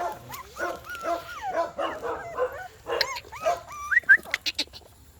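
A litter of newborn puppies whimpering and squeaking, many short cries overlapping one another, with a few sharper rising squeals about four seconds in.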